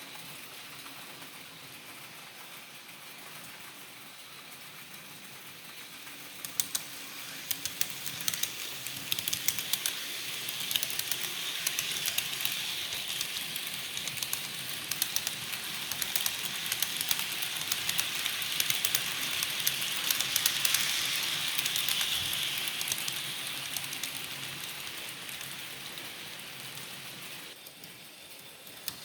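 HO scale model train running past on its track: fast, irregular clicking of the wheels over the rail joints with a hiss, growing louder over several seconds and then fading away.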